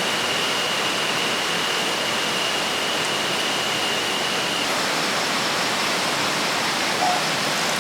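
River water rushing steadily, an even unbroken rush. A thin, steady high tone sits on top and stops about two-thirds of the way through.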